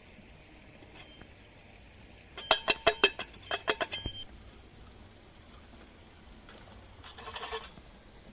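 Kitchenware clinking: a quick run of about a dozen sharp, ringing clinks from about two and a half seconds in, then a softer rattle near the end.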